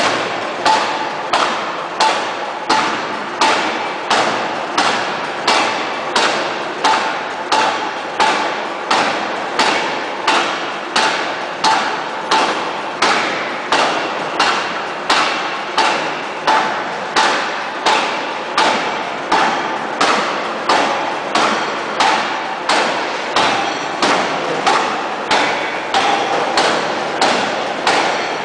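Hydraulic open-die forging hammer striking a steel shaft in steady, evenly spaced blows, a little faster than one a second, each a sharp bang with a short ringing decay.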